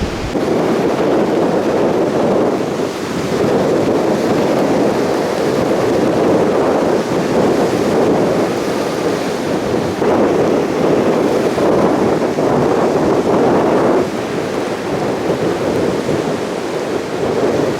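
Heavy surf breaking and washing onto a beach in a strong onshore wind, a loud continuous rush that eases briefly a couple of times, with wind buffeting the microphone.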